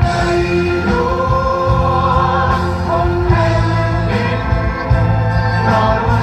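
Song with long held sung notes over a steady bass line.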